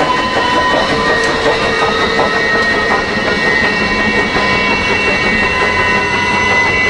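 Passenger train cars rolling steadily past on the track, a continuous rumble with a steady high whine running over it.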